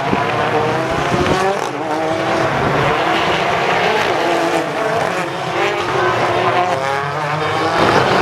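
A pack of BTCC touring cars racing together, several engine notes overlapping and rising and falling as they rev and change gear.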